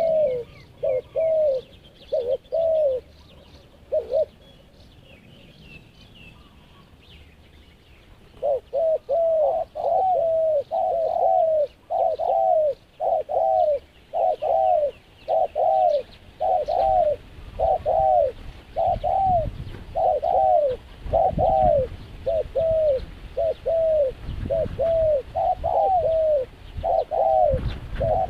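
A dove cooing in short, repeated notes, each rising and then falling in pitch. A few coos come at first, then a pause of about four seconds, then a steady run of about two coos a second. Small birds chirp faintly during the pause.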